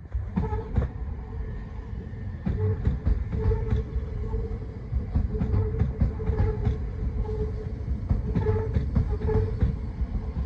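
Southeastern Class 375 Electrostar electric multiple unit rolling past close by as it pulls into the platform: a low rumble of the bogies, with irregular clicks of the wheels crossing rail joints and pointwork, and a humming tone that comes and goes.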